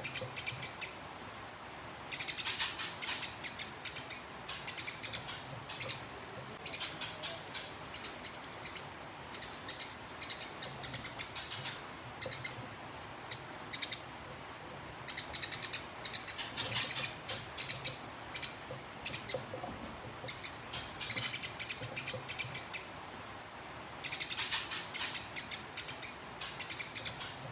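Gereja tarung songbird singing a fast rolling chatter: bouts of dense, high, rapid notes about one to three seconds long, broken by short pauses.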